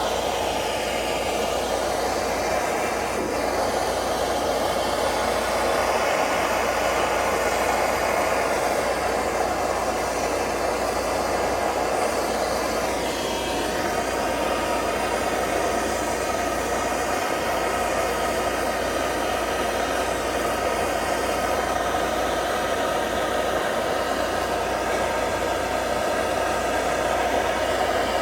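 A machine running steadily, a constant motor-driven noise with a faint drifting whine above it.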